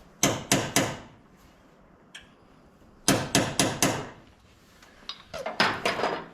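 Hammer blows in three quick runs of about four or five strikes each, a couple of seconds apart.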